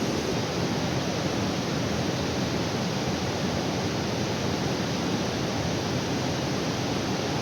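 Steady rushing noise of a waterfall's falling water, unchanging in level.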